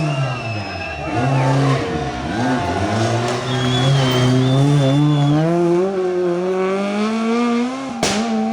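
Rally car engine under hard acceleration. Its revs dip and recover in the first second or so, then climb steadily for about five seconds before the sound cuts off suddenly.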